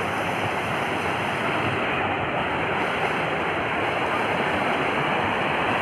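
Steady rush of flowing water, an even unbroken sound.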